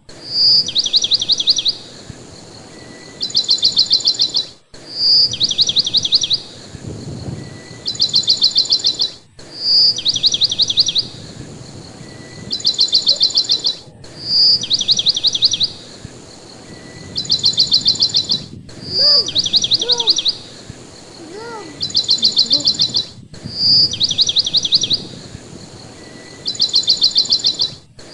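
Bird song in fast, high trills, each a quick run of about ten notes, coming in pairs with a short bright whistle note between them. The same few seconds repeat identically about every four and a half seconds, with a brief dropout at each join: a looped bird-song recording.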